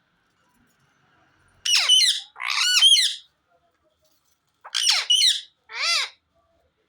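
Pet parrot calling loudly in two short bouts: two harsh calls about two seconds in, then three more about five seconds in.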